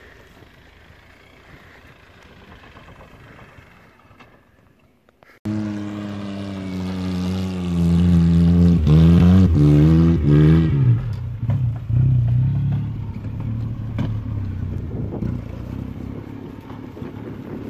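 Open two-seater kit car's engine revving hard under load as it climbs a steep slope. The pitch rises, then falls off about 10 seconds in and settles to lower, steadier running. Before a sudden start about 5 seconds in there is only a faint rush of wind and a distant car.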